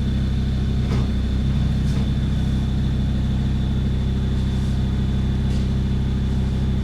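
Off-road 4x4's engine running steadily at idle: a low, even hum that holds one pitch, with a faint steady high whine above it.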